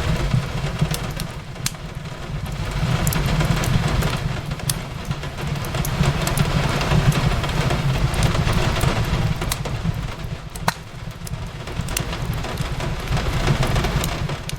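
Steady rain on a window with a low rumble underneath, overlaid by the sharp pops and crackles of a wood fire burning in a fireplace, a few pops standing out louder than the rest.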